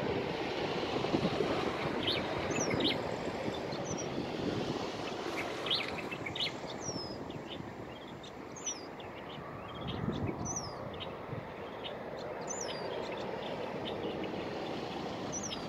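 A small songbird gives short, high, down-slurred chirps every second or two over a steady low outdoor rumble of wind and distant traffic.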